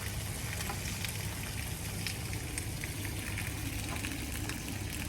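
Steady rain falling, with many small drops pattering and ticking on surfaces over a low, even hum.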